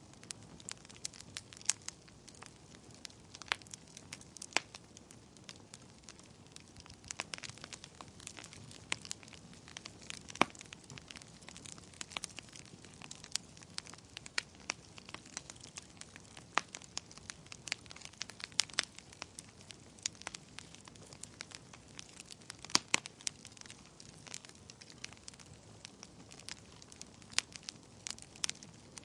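Wood fire burning in a fireplace: irregular sharp crackles and pops over a low hiss, a few pops louder than the rest.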